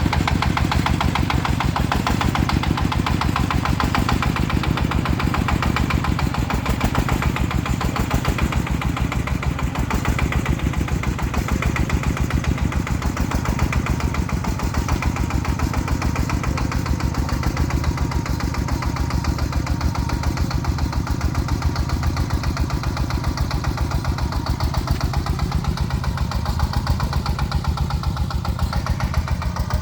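Farm truck's engine running steadily with a fast, even chugging.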